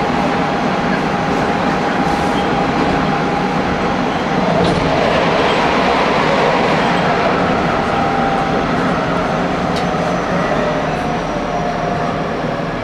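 Hanshin Railway electric local train running at speed, a steady rumble of wheels on rail with a faint steady whine above it and a few clicks.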